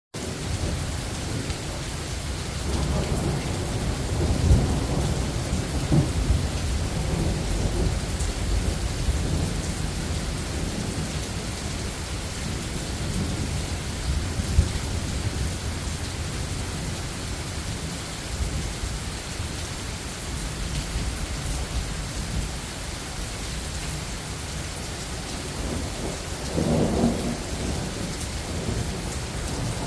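Steady rain falling in a thunderstorm, with low rolls of thunder: a long rumble in the first several seconds and another near the end, plus a few sudden sharp sounds.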